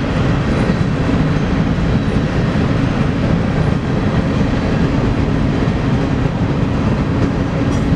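BNSF freight train rolling past, a steady low rumble of wheels on rail.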